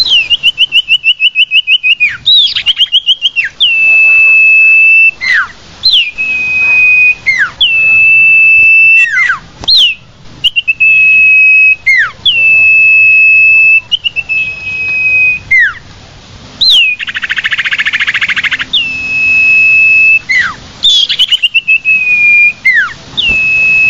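Common iora (sirtu/cipoh) calling over and over: long level whistles, each opening with a quick upward flick and ending in a downward slur, repeated about every one and a half seconds. There is a rapid trill at the start and a harsh rasping churr about two-thirds of the way through. This is a lure call used to draw wild ioras in.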